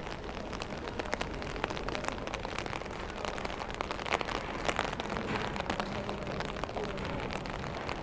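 Steady rain with many sharp taps of individual drops striking close by.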